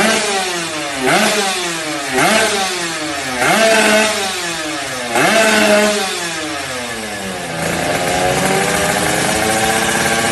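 Yamaha 125Z two-stroke engine through a stainless underbelly aftermarket exhaust, blipped five times, each rev rising sharply and falling back, then settling into a steady idle near the end.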